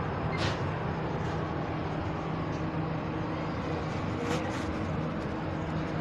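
Steady rumble of a diesel locomotive's engine running at the platform, with brief hissing bursts about half a second and about four seconds in.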